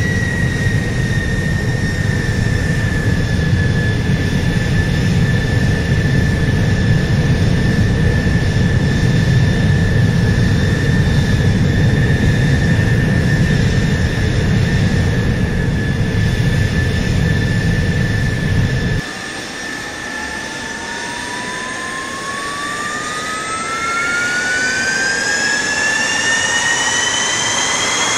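Jet engine: a steady high whine over a heavy low rumble. About two-thirds of the way through the rumble cuts off, and a second whine rises steadily in pitch, like a turbine spooling up.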